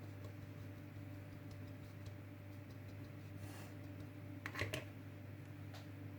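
Low steady hum, with a short swish about three and a half seconds in and a quick cluster of light clicks about a second later.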